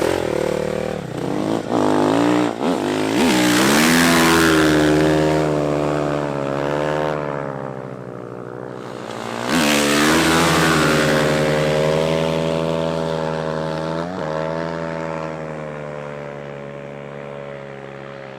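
Dirt bike engine revving hard under load as the ski-fitted bike is ridden across water, its pitch climbing sharply twice as the throttle opens. Then it holds a steady high rev and slowly fades as it pulls away.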